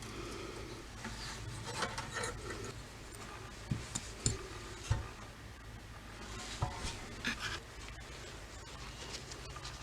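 Rubbing and scraping with scattered light clicks and knocks as small hard parts of a toy truck are handled and worked on, over a steady low hum.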